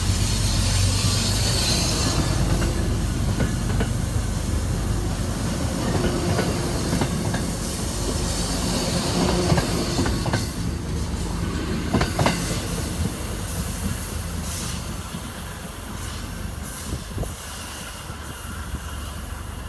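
MBTA commuter rail train rolling through, with a low steady hum at first, clicking over the rail joints and some wheel squeal, the sound slowly fading as it moves away.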